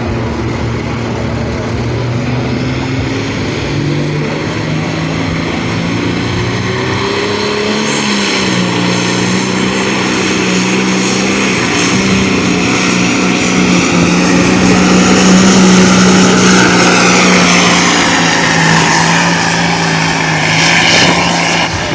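Farm tractor engine working under heavy load while pulling the weight sled. Its pitch climbs about a third of the way in and then holds high and steady, getting louder toward the end.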